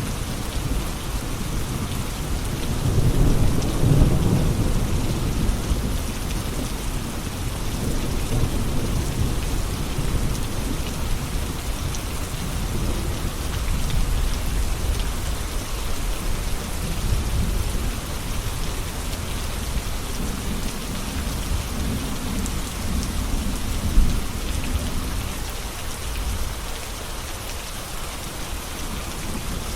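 Steady heavy rain falling, with low rolling rumbles of distant thunder swelling a few seconds in and again in the second half.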